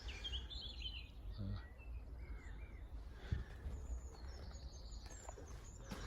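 Small birds chirping and singing, with short rising and falling chirps, over a steady low rumble; a soft thump about three seconds in.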